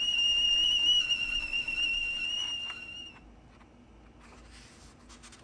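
Tea kettle whistling: one steady, high whistle lasting about three seconds that wavers slightly, then stops.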